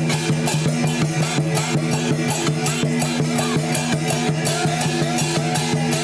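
Chinese lion/snake dance percussion: drum, gongs and cymbals beating a fast, steady rhythm of about four to five strokes a second over a sustained low ringing tone.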